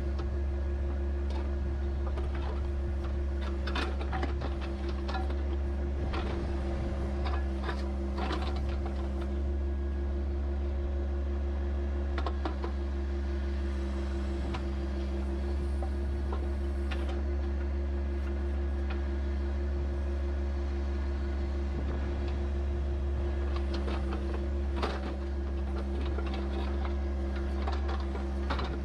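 Compact tractor's three-cylinder diesel engine running at a steady speed, with scattered short knocks and clanks.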